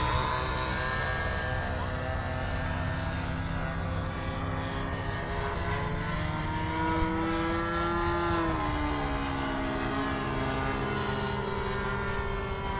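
Radio-control model airplane's two-stroke glow engine, an O.S. 46 AX, running at high revs in flight. Its pitch rises and then drops about eight seconds in as the plane passes by.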